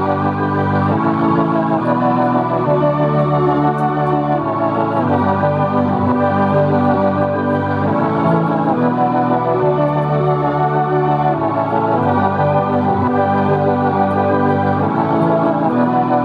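Instrumental music played on a Soundcore Motion X600 Bluetooth speaker: sustained organ-like keyboard chords over a bass line, changing every second or two, with no vocals.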